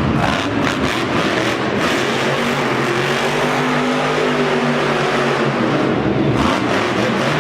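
Monster truck's supercharged V8 engine revving: its pitch climbs and then falls away over a few seconds, over a loud, steady arena din.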